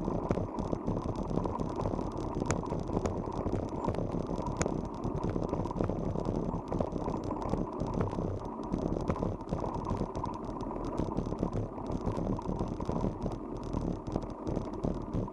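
Bicycle riding noise: a steady rumble of tyres and wind on the microphone, with the bike rattling and occasional sharp clicks.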